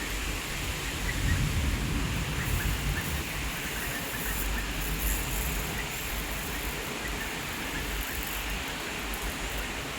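Rain and wind outdoors: a steady hiss with an uneven low rumble of wind on the microphone, and faint short chirps.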